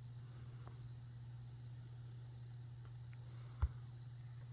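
Steady chorus of insects trilling high and continuously over a low, steady hum, with one short soft thump a little past the middle.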